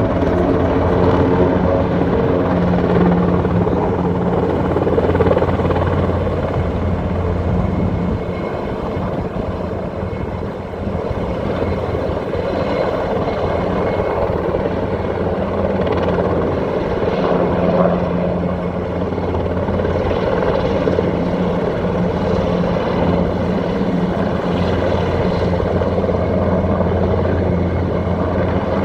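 KUH-1 Surion twin-engine utility helicopter flying, its rotor and turbine sound steady and loud, easing off for a few seconds about a third of the way through and then growing again.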